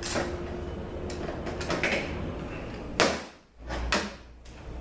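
Metal automatic-transmission parts scraping and clinking as the forward clutch assembly is pulled apart on the bench, with one sharp knock about three seconds in.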